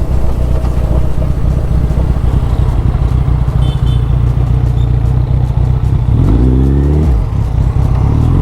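Suzuki Hayabusa's 1340 cc inline-four engine running under way, then revving up sharply about six seconds in and dropping off suddenly about a second later.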